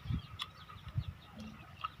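Close-up eating sounds of a person chewing mango: a couple of soft low thumps and a few wet mouth clicks. Faint small birds chirp steadily behind.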